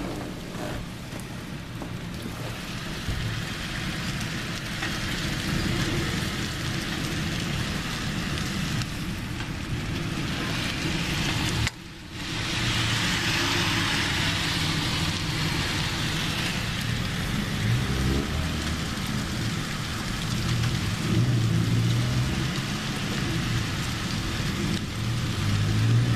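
Rain falling steadily during a thunderstorm, with low rumbling underneath. The sound drops out for a fraction of a second about halfway through.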